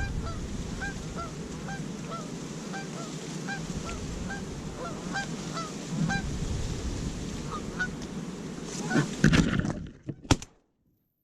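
A flock of geese honking repeatedly as they fly in, over wind noise. About nine seconds in, several shotgun shots, after which the sound cuts off.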